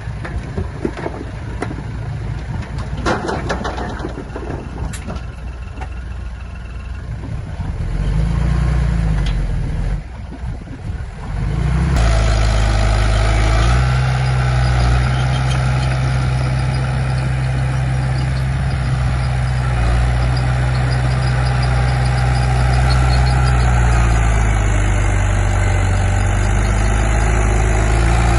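Heavy diesel engine of earth-moving machinery running, with a few knocks in the first few seconds. About twelve seconds in the sound jumps to a louder, steady engine drone.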